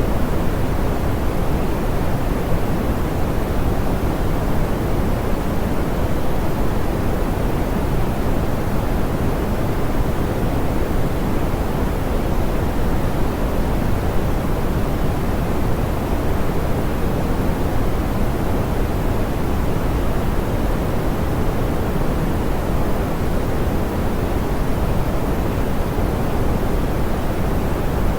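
Steady, smoothed pink noise: an even hiss weighted toward the low end, softer in the highs, with no changes.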